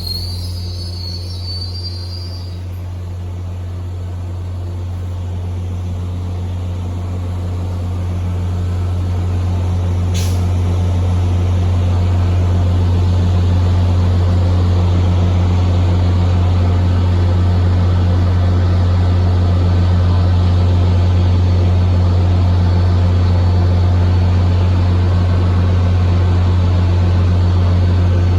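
Diesel locomotive engine running with a steady low drone that grows louder over the first dozen seconds, then holds. A brief wheel squeal at the very start and a short sharp hiss about ten seconds in.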